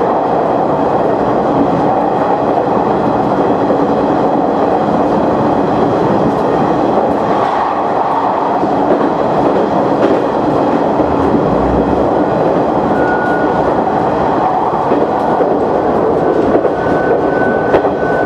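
KiHa 100 diesel railcar running through a tunnel, heard from the front of the car: a steady, dense running noise of engine and wheels on the rails. A thin high whine comes in briefly about two-thirds of the way through and again near the end.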